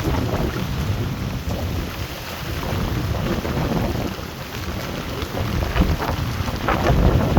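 Heavy rain and gusting wind of a severe thunderstorm, with a deep rumble that swells and fades and is strongest near the end.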